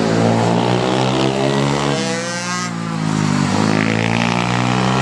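Pit bike engine running hard on a track, its pitch dropping about two seconds in as the throttle closes, then climbing again as it revs back up.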